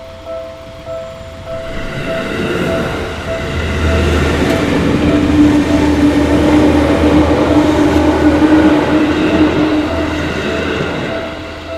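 An electric train on the Seibu Shinjuku Line passes over a level crossing. Its rumble builds over the first few seconds, is loudest through the middle with a steady motor hum, and fades near the end. Underneath, the crossing's warning bell rings a repeating two-tone chime, which is drowned out while the train goes by.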